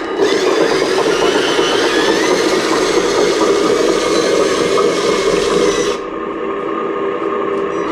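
Electric motors of a radio-controlled model excavator whining steadily, rising and falling a little in pitch as it works; about six seconds in the hiss above drops away and the whine carries on slightly quieter.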